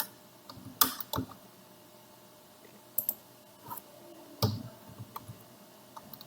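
Irregular clicks of a computer mouse and keyboard, about ten in all, the loudest a little past the middle.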